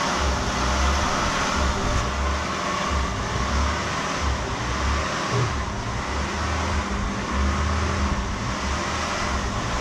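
A 1999 Acura TL's 3.2-litre V6 idling, its revs hunting up and down so that a low pulsing swells and fades every second or so. The owner suspects the idle control valve.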